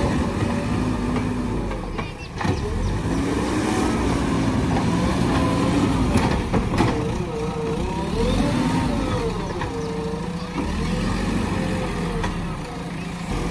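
JCB backhoe loader's diesel engine running, its pitch rising and falling again and again as it works under load. A few sharp knocks cut in, around two seconds in and again about six seconds in.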